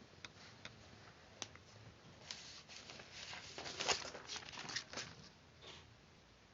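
Paper being handled at close range in a papercraft build: a scatter of soft crinkles, rustles and light taps, busiest in the middle, with the sharpest click about 4 seconds in.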